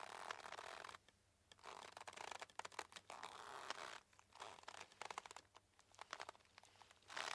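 Boat rope creaking under strain, in about three drawn-out, crackly creaks of a second or more each with short quiet gaps between.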